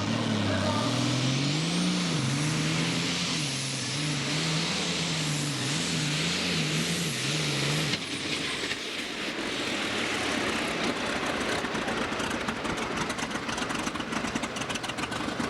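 Pulling tractor's engine under full load during a pull, its pitch wavering up and down, with a thin high whine above it. The engine note cuts off abruptly about halfway through, leaving a rougher noise with crackling.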